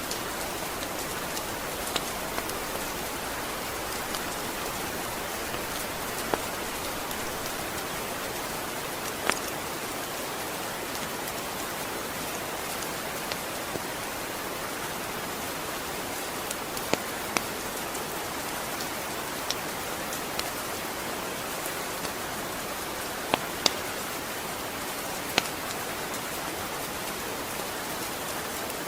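Steady rain falling, an even hiss, with a dozen or so sharp ticks scattered irregularly through it.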